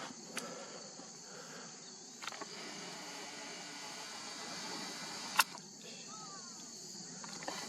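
Steady high-pitched insect chirring, with a few sharp clicks over it, the loudest about five seconds in.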